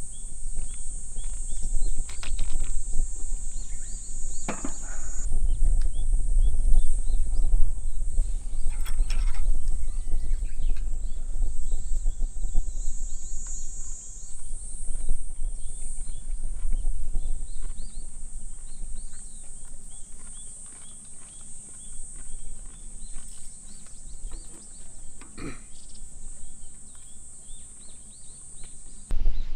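Outdoor ambience: a steady high-pitched buzz, birds chirping, and a low rumble, with a few short knocks.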